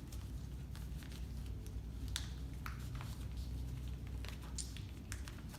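A sheet of paper being folded and creased by hand, with scattered short rustles and crinkles over a low steady hum.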